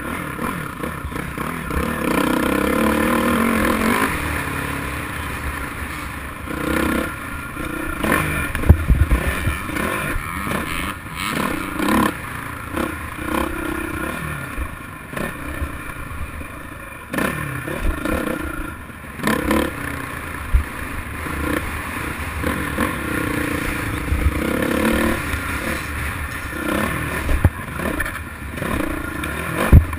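Motocross dirt bike engine revving up and down as it is ridden, with rattling and several sharp thumps, the loudest about nine seconds in.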